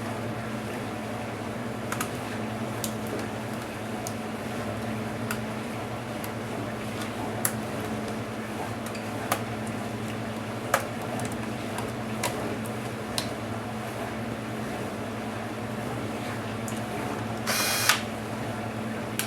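Small sharp clicks and taps of tools and parts being handled while a Dell Inspiron 1525 laptop is taken apart, one every second or two, over a steady low hum. Near the end there is a short, louder rasp of something scraping or sliding.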